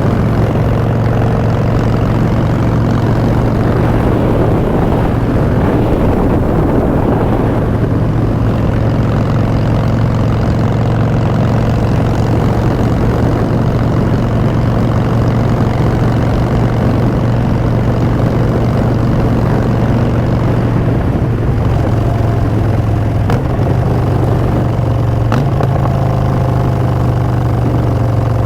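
Harley-Davidson Street Bob's V-twin running through Vance & Hines Short Shots exhaust at a steady cruising pace, its note stepping up a little in pitch about three-quarters of the way through.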